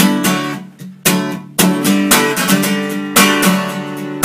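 Instrumental break in a country song: acoustic guitar strumming chords in a steady rhythm, with no singing.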